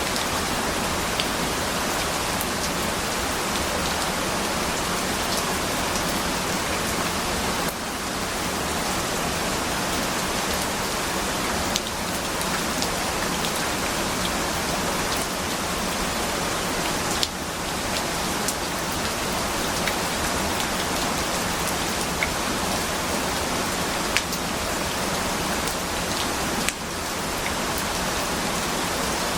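Steady rain falling on a surface, an even hiss sprinkled with small drop ticks, briefly dipping in loudness a few times.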